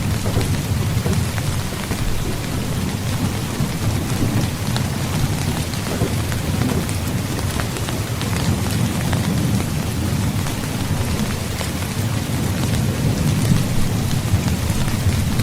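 Heavy rain falling steadily and pattering on a surface, over a continuous low rumble of distant thunder.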